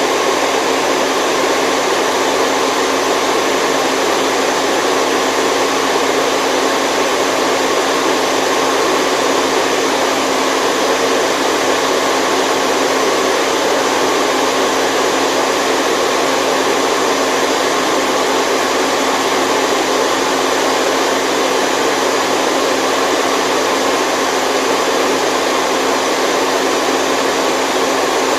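Steady white noise for a baby's sleep: an unchanging rushing hiss with little deep bass and a few faint steady tones running through it.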